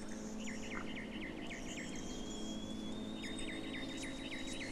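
Outdoor ambience: a bird calling in two rapid runs of short, repeated chirps, over a thin steady high tone and a faint hiss.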